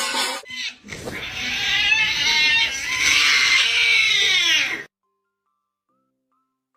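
A cat yowling in long, wavering calls that cut off suddenly about five seconds in.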